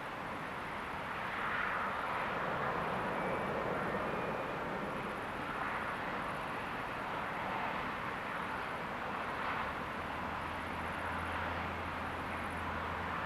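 Steady, even noise of a moving vehicle, swelling slightly a second or two in, with a low steady hum joining near the end.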